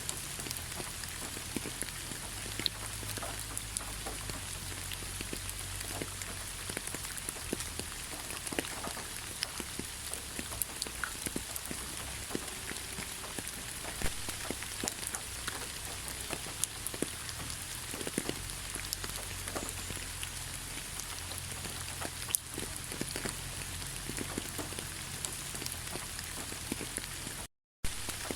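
Steady rain falling in a pine forest, with many individual drops tapping close by over the even hiss. The sound cuts out completely for a split second near the end.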